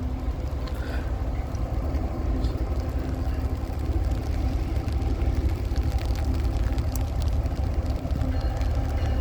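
Low, steady rumble of an approaching CSX intermodal freight train, slowly growing louder.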